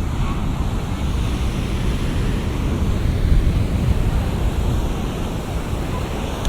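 Heavy shorebreak surf breaking and churning, a steady rumble of waves that swells a little about halfway through, with wind buffeting the microphone.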